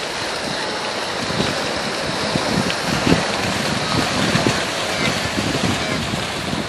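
Steady rushing of river water with irregular low splashes from wildebeest crossing the river.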